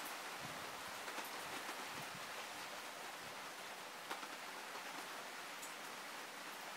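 Heavy rain falling steadily: a constant hiss with scattered sharper drop ticks, and one louder drip about four seconds in.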